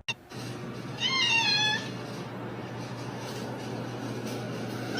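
A cat meows once, a short wavering call about a second in, over a steady low hum.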